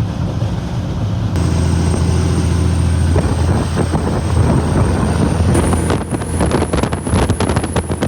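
Semi truck's Cummins diesel engine pulling hard under a loaded trailer, a steady low drone with a thin high whistle that rises slightly. Rapid rattles and knocks join in for the last two seconds.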